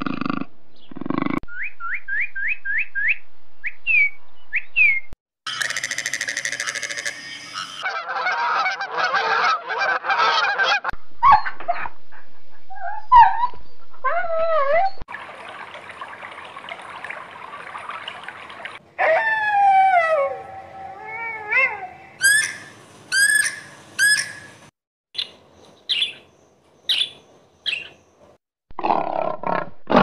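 A run of different animal calls one after another: a row of quick rising chirps, squawks and falling whistle-like glides, with a few seconds of steady hiss in the middle. A big cat's roar starts near the end.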